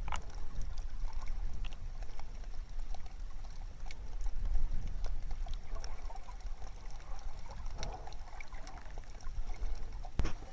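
Sea water moving around the microphone, a steady low rumble with scattered small sharp clicks.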